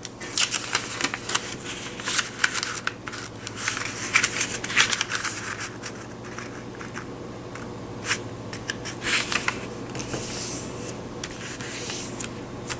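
A square of paper being handled and folded across the middle, with irregular crinkles, and the rubbing of fingers creasing it along the fold.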